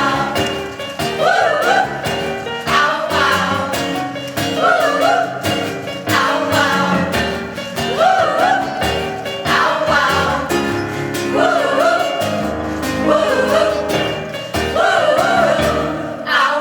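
Choir singing phrase after phrase over a steady instrumental accompaniment.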